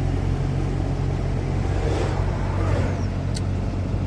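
Car driving, a steady low rumble of engine and road noise, with one sharp click about three and a half seconds in.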